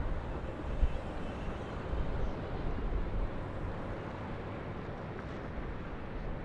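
Steady city ambience: a distant low rumble of traffic with a faint steady hum and wind on the microphone.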